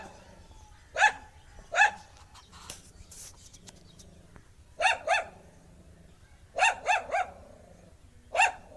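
Dog barking in short groups of sharp barks: a pair, another pair, then three quick barks and a single one near the end.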